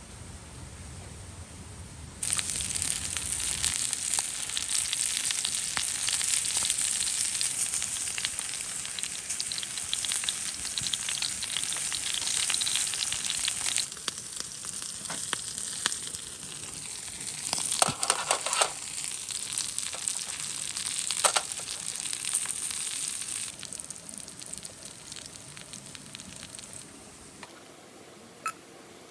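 Food sizzling and frying in a hot pan, a dense hiss full of small crackles. It starts suddenly about two seconds in and dies away near the end, with a few sharper clicks along the way.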